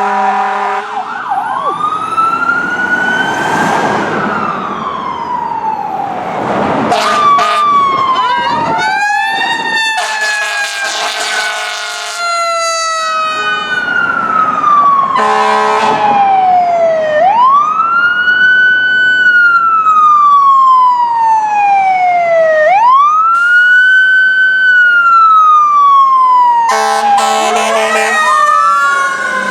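Fire truck siren wailing, each cycle rising quickly and falling slowly over about five seconds. Air horn blasts come in at the start, about halfway and near the end.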